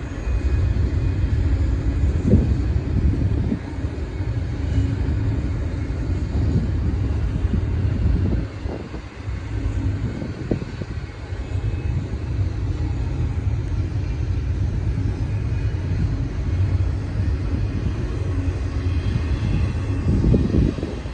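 Intermodal freight train rolling past: a steady low rumble of steel wheels on rail, with a few knocks along the way.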